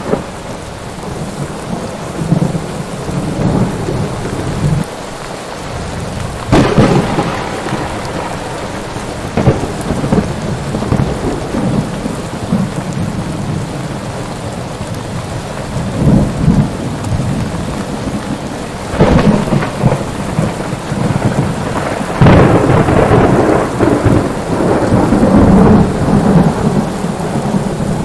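Thunderstorm: steady heavy rain with repeated rolls of thunder. A loud crack and rumble comes about six seconds in, more around the middle, and a long rolling peal through the last third.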